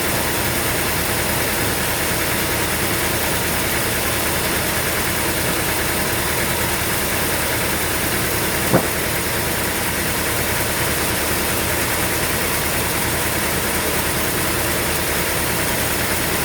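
Sawmill machinery running steadily with an even engine drone, and one sharp knock about halfway through.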